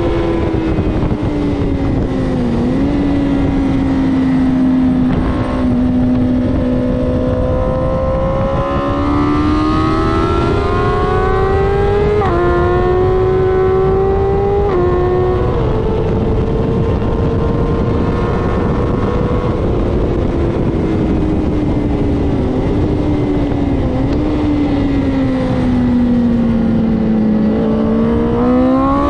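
Onboard sound of a BMW S1000RR inline-four sport bike ridden hard on a racetrack: the engine note rises under acceleration with sudden steps at the gear changes about twelve and fifteen seconds in, and falls as the rider slows for corners, climbing again sharply near the end. Wind rushes over the microphone the whole time.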